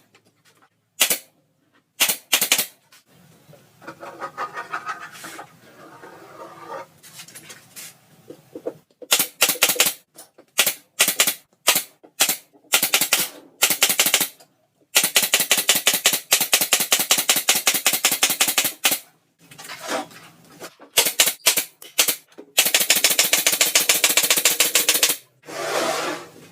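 Sound system with an OD15 subwoofer cabinet playing back loud volleys of very rapid, sharp pulses, each a second or two long, with short gaps and a few softer passages between them.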